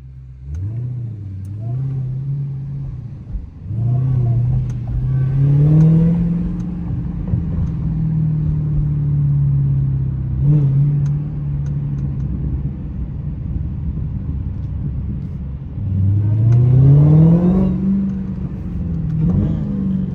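Dodge Hellcat's supercharged V8 accelerating, its note climbing in pitch several times, most strongly about 4 seconds in and again about 16 seconds in, and holding steady in between.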